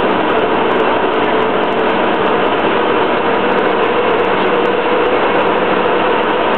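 Gulfstream IV flight deck during the climb just after takeoff: a loud, steady rush of airflow and jet engine noise with a faint hum underneath.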